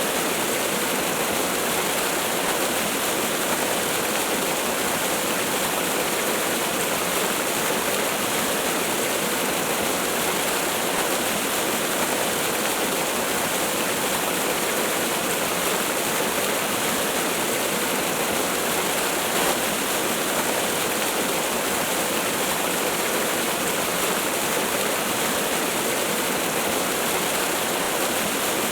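Waterfall rushing: a steady, unbroken hiss of falling water, strongest in the upper range, with no change in level.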